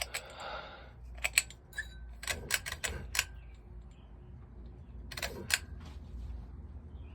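Harbor Breeze Cheshire ceiling fan running with a steady low hum, its bent blade making it wobble, with several clusters of sharp clicks.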